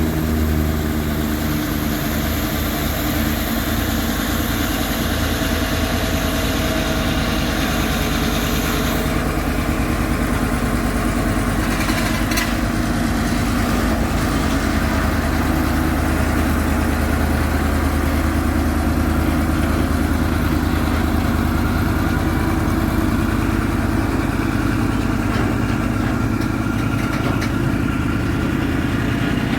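A truck's engine running steadily at a low, even speed.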